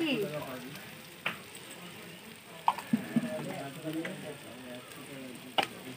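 Spicy masala sizzling steadily in a large aluminium kadai, with a few sharp clicks of small containers being handled.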